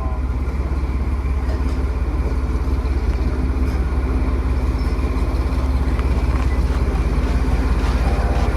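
Diesel locomotive engine idling steadily with a low, rapid throb, and a faint steady hum joining about three seconds in.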